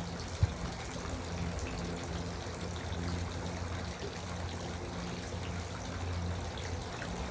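Garden water fountain running, water trickling and splashing steadily, with one short click about half a second in.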